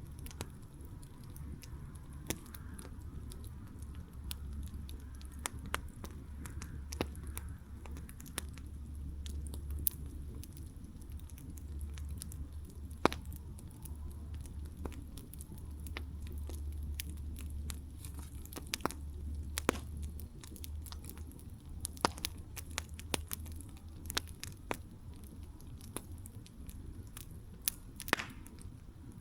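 Wood campfire crackling, with irregular sharp pops and snaps over a low steady rumble. One louder pop comes about thirteen seconds in.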